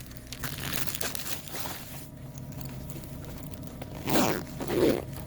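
Light rustling and clicking of items being handled, then a zipper pulled twice in two quick loud strokes near the end.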